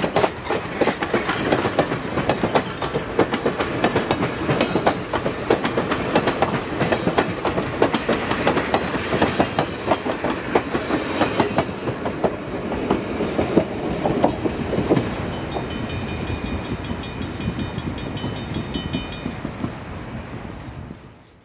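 Passenger train coaches rolling past close by, their wheels clicking and clacking over the rail joints. After the last car passes, the clatter thins out as the train moves away, a faint high ringing comes in, and the sound fades out at the end.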